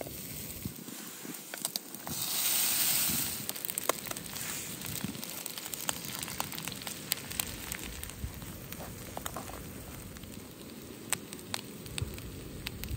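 Spam cubes, then leftover rice and egg, frying in a hot pan: a steady sizzle with frequent sharp pops and crackles. About two seconds in, the hissing swells louder for a second and a half.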